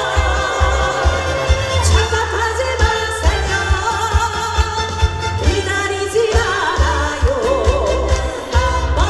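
Trot song sung live over a backing track with a steady bass beat, the voice wavering with vibrato on held notes.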